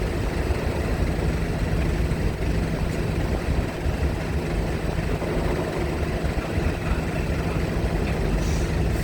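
Heavy diesel engines running steadily at low speed, a continuous deep rumble.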